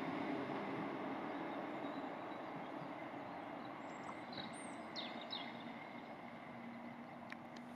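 A passenger train running away into the distance, its rumble and a faint steady whine slowly fading. A few short bird chirps come in about four to five and a half seconds in.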